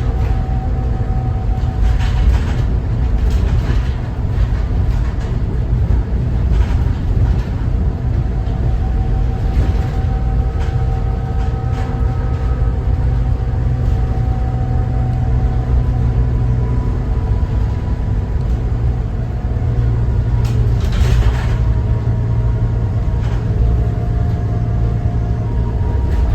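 A Cummins ISB 6.7 inline-six turbodiesel in a 2014 Thomas Saf-T-Liner C2 school bus, heard from on board while driving: a steady low drone whose pitch drifts up and down as engine speed changes. Short rattles of the bus body come and go, the most marked about twenty seconds in.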